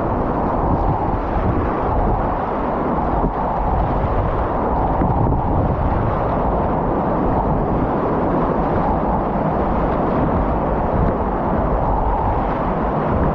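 Whitewater rapids rushing in a steady, loud roar with a deep rumble.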